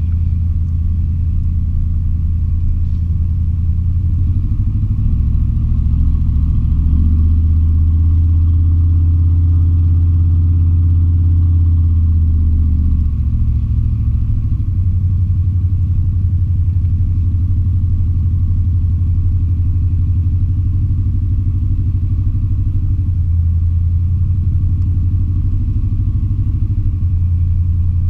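Chevy K20 pickup's 350 small-block V8 running steadily under way, heard from inside the cab; the engine note shifts in pitch a few times as the revs change.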